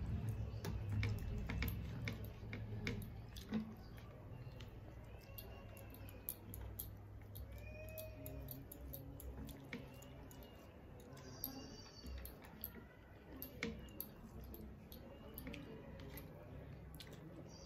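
Eating sounds from two people chewing and smacking on mouthfuls of rice and fish curry eaten by hand: many small wet mouth clicks and squishes, with a few faint short squeaks now and then.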